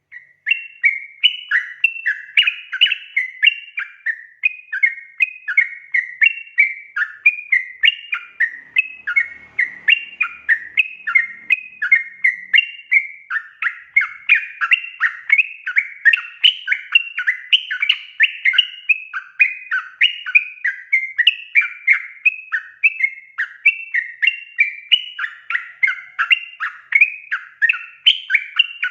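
Yellow-vented bulbul (trucukan) song: an unbroken, fast stream of bright, bubbling, chattering notes, several a second, sliding up and down in pitch.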